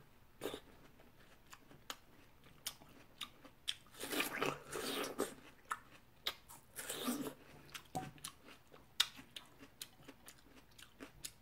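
Eating watermelon: chewing and biting, with many small clicks from the mouth and two louder stretches of biting about four and seven seconds in.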